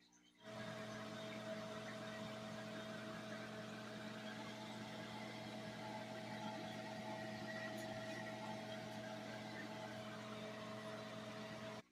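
A steady machine hum with a rushing hiss. It starts abruptly about half a second in and cuts off suddenly near the end.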